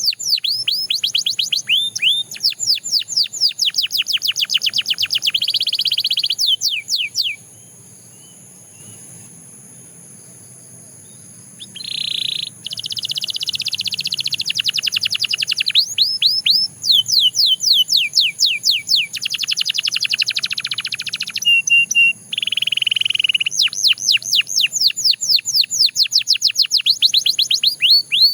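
Canary singing in fast trills of repeated down-sweeping high notes and rolling tours. The song breaks off for about four seconds about a quarter of the way in, then picks up again.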